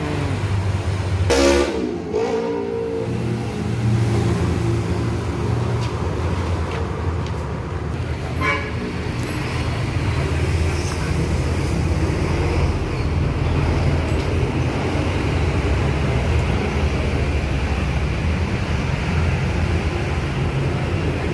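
A motor vehicle engine running steadily, with a loud horn-like toot that falls in pitch about a second and a half in and a shorter one about eight seconds in.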